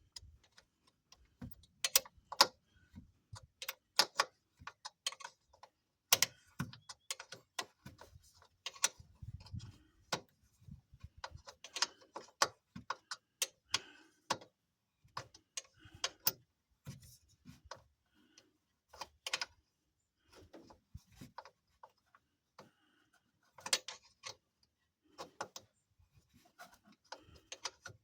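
Irregular clicks and light knocks from hand-tool work on a truck's radiator fan shroud as it is unfastened for removal, coming in scattered clusters with short pauses.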